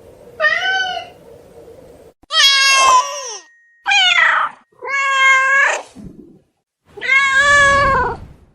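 Ocelot (Leopardus pardalis) meowing: five drawn-out meows in a row, each about half a second to a second and a half long.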